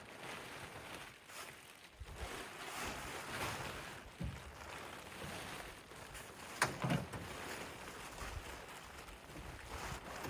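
Plastic tarp rustling and crinkling as it is pulled and handled, with a sharp knock about six and a half seconds in.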